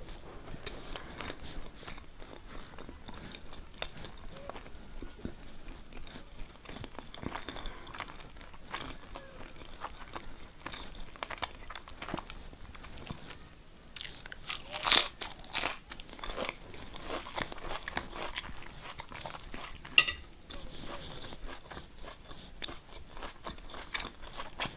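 Close-up sounds of a person chewing and eating, with small wet clicks throughout. A louder scrape-like clatter about halfway through and one sharp click a few seconds later.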